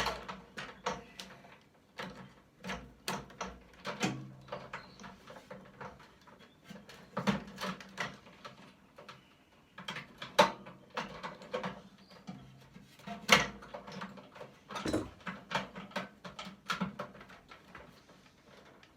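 Irregular clicks, knocks and metal clatter of hand tools working on a microwave oven's parts as it is taken apart, with a sharp knock at the very start and another about 13 seconds in.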